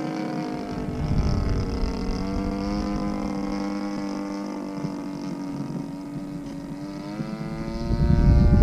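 DLE 35RA single-cylinder two-stroke gasoline engine of a Slick 540 RC aerobatic plane in flight, running like new on its freshly rebuilt top end. Its note dips and then rises again with throttle and the plane's passes. A low wind rumble on the microphone comes in about a second in and swells near the end.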